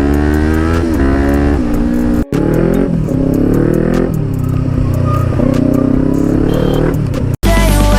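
Kawasaki Ninja 400's 399cc parallel-twin engine through an Akrapovic exhaust, accelerating hard. Its pitch climbs and drops back at each gear change. The sound cuts off abruptly twice, about two seconds in and near the end.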